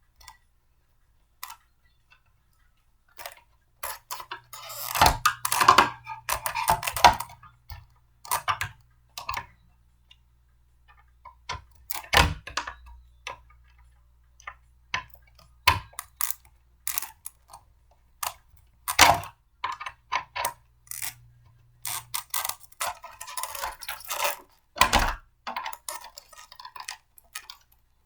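Irregular clicks, knocks and clatter of plastic and metal blender parts being handled and fitted together during assembly, with a couple of busier bursts of rattling.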